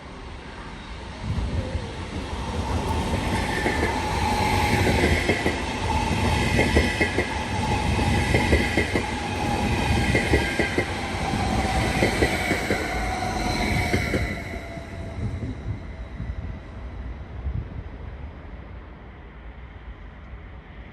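A train running through a railway station, its wheels clattering rhythmically over rail joints and points, with a high ringing tone above. It comes up suddenly about a second in and fades away after about fifteen seconds.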